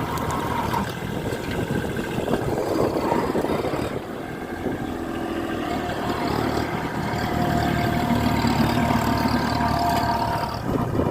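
A vehicle engine running steadily, with a low hum under some higher held whining tones that shift in pitch.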